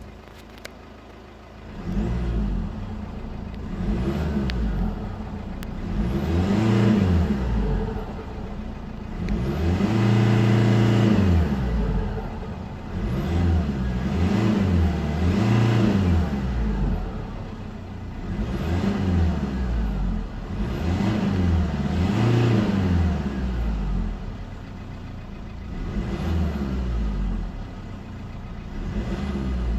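Mercedes C220 CDI's 2.2-litre four-cylinder diesel engine idling briefly, then revved up and down about nine times, once held at the top for a couple of seconds. The engine is in limp mode: the revs top out at the same ceiling each time, which the owner puts at 3500 rpm.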